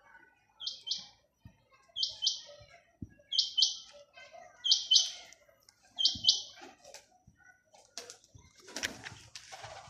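A bird giving short, high-pitched double chirps, five times at about one-and-a-third-second intervals, followed near the end by a brief burst of rustling noise.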